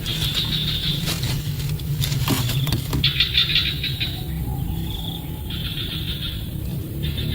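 High-pitched, rapidly pulsed calls in repeated bursts of about a second, over a steady low rumble, with a few sharp clicks about two to three seconds in.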